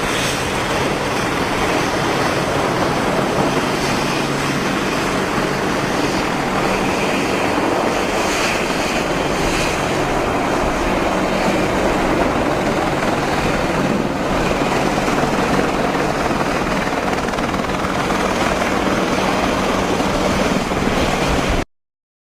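Apache attack helicopter's rotor and engine noise, a steady dense rushing with a low hum, cutting off suddenly near the end.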